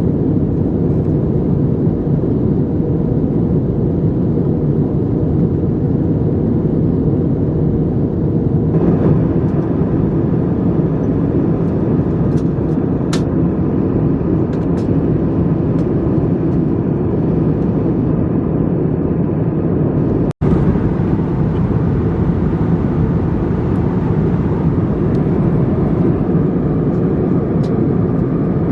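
Steady cabin noise of an Airbus A321 in flight: the low, even roar of the jet engines and the airflow over the fuselage. It drops out for an instant about twenty seconds in.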